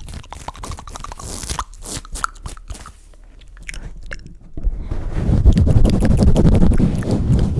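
Close-miked wet mouth clicks and smacks for about the first four and a half seconds, then a sudden, much louder low rumbling as hands pump and swirl over the microphone.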